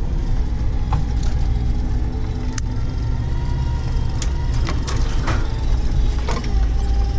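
Off-road vehicle's engine running steadily under load, with several sharp knocks and clatters from the body and suspension over rough ground.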